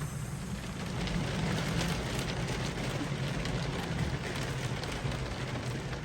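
Steady rain falling on the boat, with a constant low rumble of wind underneath.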